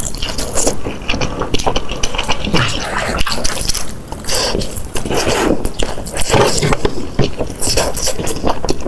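Close-miked eating sounds: irregular chewing with short crunches and wet mouth noises.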